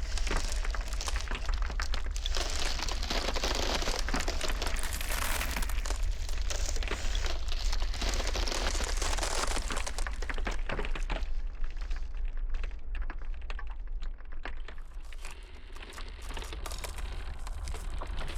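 Iceberg ice crackling and popping densely over a steady low rumble; the crackle thins out and quietens for a few seconds past the middle, then picks up again.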